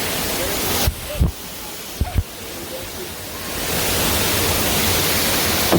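Steady rush of a waterfall and river. About a second in it turns muffled, with a few low thumps, and after about three and a half seconds the full rush comes back.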